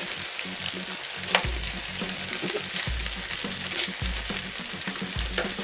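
Fried rice sizzling in a hot frying pan as it is stirred and turned with a plastic slotted spatula, with a few sharp scraping clicks, the clearest about a second in.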